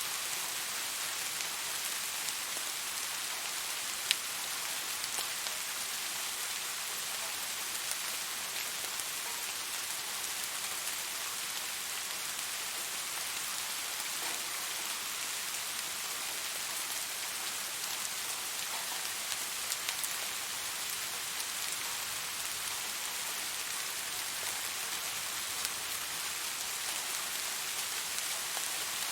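Steady rain falling, an even hiss with a few sharper single drop ticks, the clearest about four seconds in.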